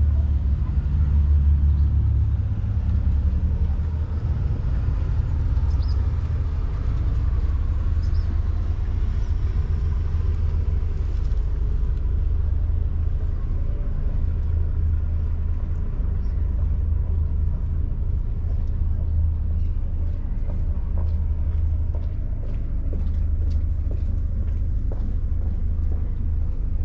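Steady low rumble with faint scattered ticks in the second half.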